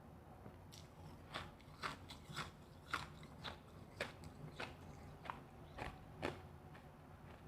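Refrozen powdery freezer ice being bitten and chewed up close, a crisp crunch about twice a second.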